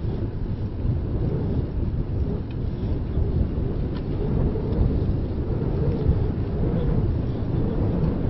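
Wind buffeting the microphone of a handheld ZOOM Q3 recorder on a moving bicycle: a steady, low rumbling noise.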